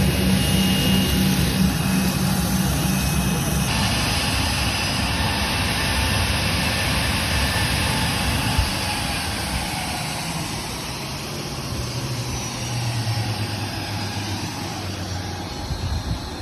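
Air Force airplane's engines running close by: a steady rush with high, thin whining tones over a low engine tone, easing off gradually in the second half.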